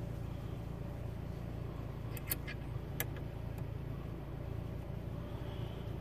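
Steady low rumble of a vehicle running, with a quick cluster of three sharp clicks a little over two seconds in and another click about a second later.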